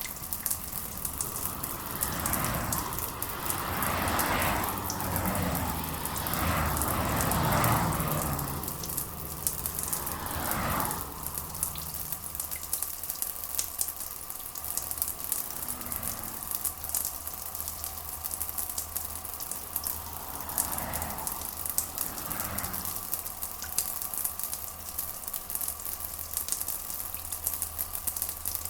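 Rain falling steadily, a dense hiss of fine pattering drops, with a few louder swells in the first ten seconds and again around two-thirds of the way in.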